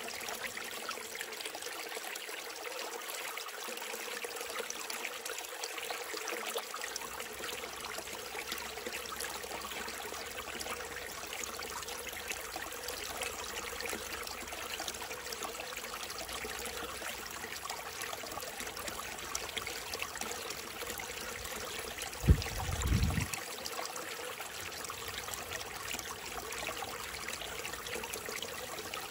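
Small mountain stream trickling and splashing steadily over rocks. About three-quarters of the way through there is a brief low thump, the loudest moment.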